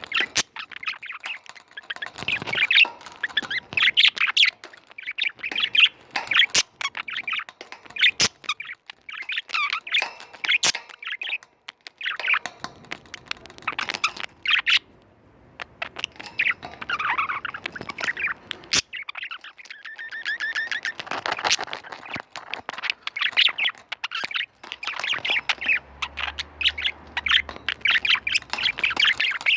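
Pet budgerigars warbling and chattering in long runs, with a short pause about halfway through and a few sharp clicks.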